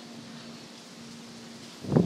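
Steady rain and wind noise outdoors, with a faint steady low hum. Near the end, wind buffets the microphone with a sudden loud rumble.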